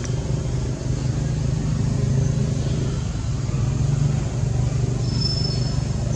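Steady low mechanical rumble of a running motor, with a faint short high squeak about five seconds in.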